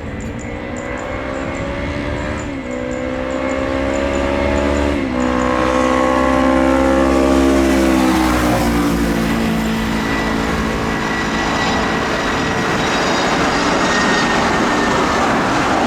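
A road vehicle's engine accelerating through two gear changes, its pitch climbing and dropping back at each shift, then falling away as it passes. After that comes a growing rushing roar of an approaching jet aircraft.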